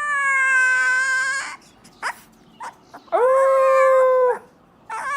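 A dog howling in long drawn-out notes: the first slides slowly down in pitch and stops about a second and a half in, a second is held steady from about three to four and a half seconds, and a third starts near the end, rising.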